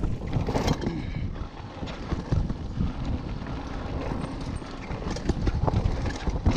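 Mountain bike clattering over a rough trail: a dense, irregular run of knocks and rattles from the bike and its tyres.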